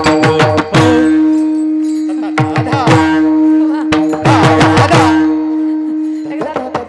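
Kirtan accompaniment: a tabla plays flurries of strokes, its deep bass strokes sliding down in pitch, over a steady held instrumental note.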